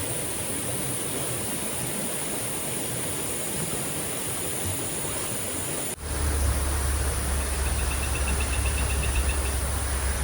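Steady rushing water noise in the forest, with a steady high whine over it. About six seconds in, the sound cuts and a deep low rumble comes in. Soon after, a fast-pulsing high call sounds for about two seconds.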